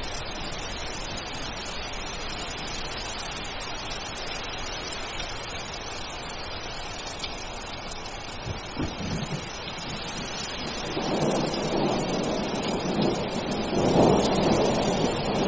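Steady heavy rain, with a roll of thunder building from about ten seconds in and loudest near the end.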